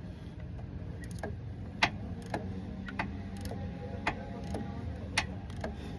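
Snap-on hand ratchet clicking as it is worked: sharp single clicks about twice a second.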